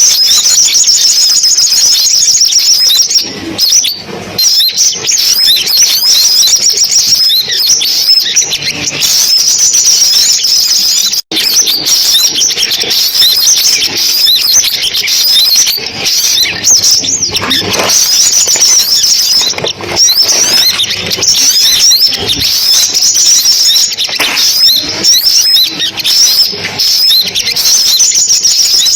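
Sunbirds calling and singing: a dense, continuous stream of rapid, high-pitched chirps and trills, with a momentary break about eleven seconds in.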